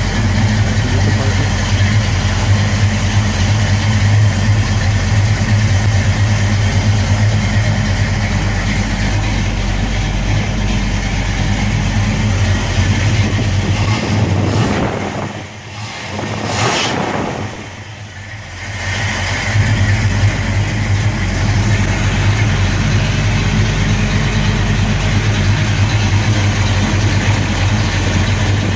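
A 468 cubic inch Pontiac V8 with a big cam and a Holley 850 double-pumper carburetor running at idle, freshly rebuilt and just started. The sound drops away briefly twice around the middle.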